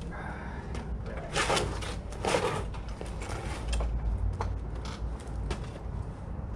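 A mini bike's small engine being pull-started: the recoil cord is yanked twice, about a second apart, with a rasping whir each time, and the engine does not catch. Knocks and rattles from handling the bike come in between.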